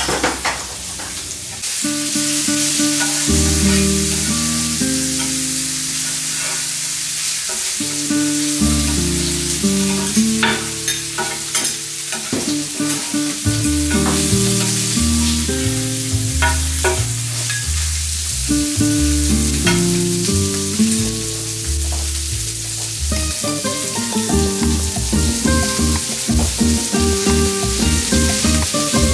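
Pork belly and then udon noodles with vegetables sizzling on the hot plate of a BALMUDA The Plate Pro electric griddle, with metal spatulas scraping and clicking against the plate now and then. Background music with a melody and bass notes plays throughout.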